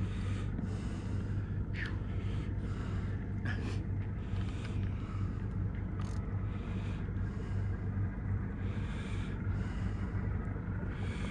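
Boat engine idling with a steady low hum, under a hiss that swells and fades about every two-thirds of a second, with a few brief sharp ticks.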